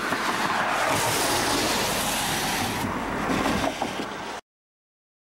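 Empty gondola cars of a work train rolling past on the rails: a steady rushing of wheels on track that cuts off abruptly about four seconds in.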